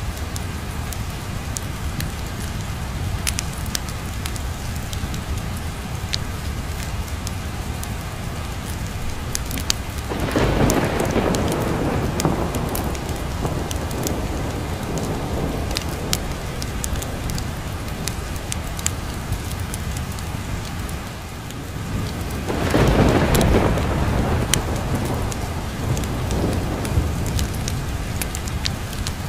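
Steady rain with the sharp crackles of a wood fire, and two rolls of thunder: one about ten seconds in and another about twenty-two seconds in, each swelling and slowly dying away.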